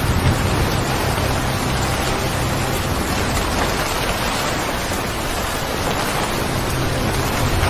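Steady rain falling, an even hiss without pauses, with a low steady hum beneath it in places.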